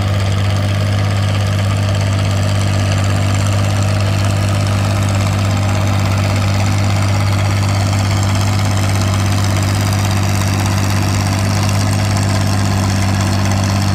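Oliver 88 tractor engine running hard at a steady pitch while pulling the sled down the track.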